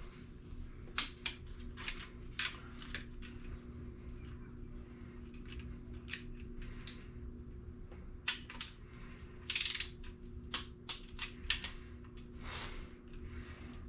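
Scattered light clicks and taps of small objects being handled, with one brief hiss about nine and a half seconds in, over a steady low hum.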